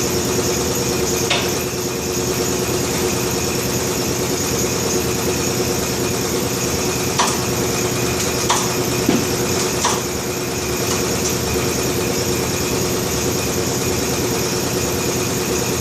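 Steady mechanical drone of a running machine, with four sharp clanks between about one and ten seconds in, as one bead of a 5.00-15 tractor tire is worked onto its rim on a tire changer.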